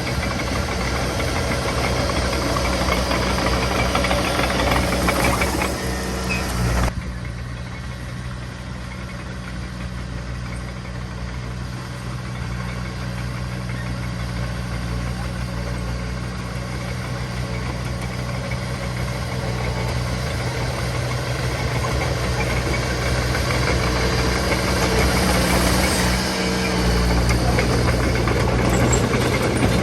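Diesel engine of heavy earthmoving machinery running with a steady drone. It drops sharply in level about seven seconds in, then slowly builds back up.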